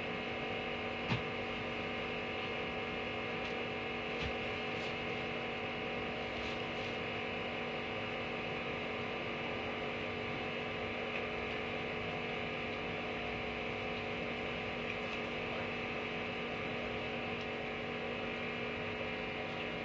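Steady electrical hum, an even drone made of several fixed tones that holds unchanged throughout, with a faint click about a second in.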